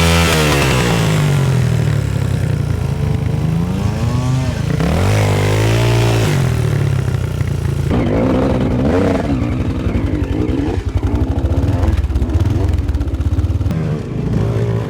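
Enduro motorcycle engines revving hard, the pitch sweeping up and back down twice in the first six seconds, then running lower and unevenly with quick throttle blips.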